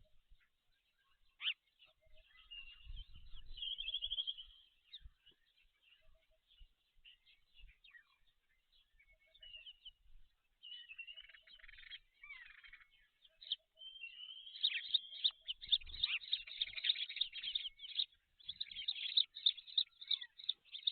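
High-pitched bird chirps and short trills, scattered at first, then a dense, rapid run of chirping for the last third.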